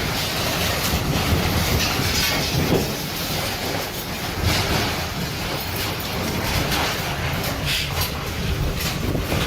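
A tornado's wind roaring: a steady, low, rushing rumble like a freight train, with a few brief louder gusts.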